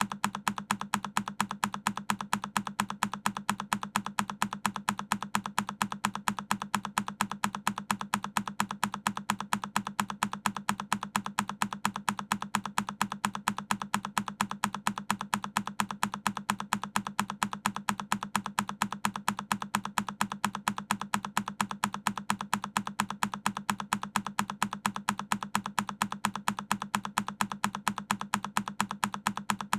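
A single key on a Keychron K10 mechanical keyboard pressed over and over. The same click repeats in an even rhythm, about three or four times a second.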